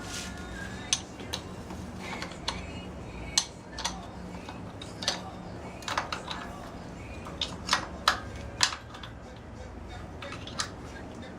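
Metal tools and small metal parts clinking and tapping in irregular single clicks, some close together, as work goes on by hand on a Dnepr motorcycle engine.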